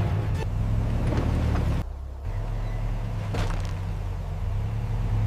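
A vehicle engine running with a steady low rumble that briefly dips about two seconds in.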